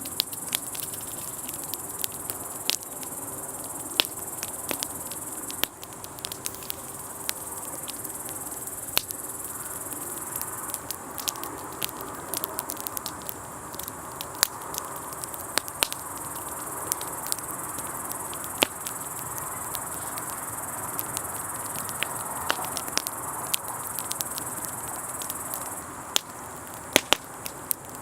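Wood campfire crackling, with sharp pops at irregular intervals, under the steady high chirring of crickets.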